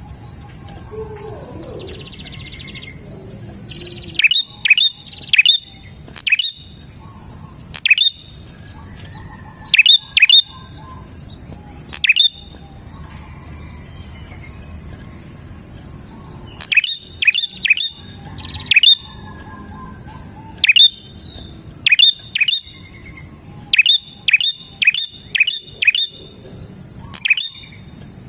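Prinia (prenjak) calling loudly: sharp, quickly falling chip notes in rapid clusters of two to five, broken by pauses of a second or two. A steady high-pitched hum runs behind the calls.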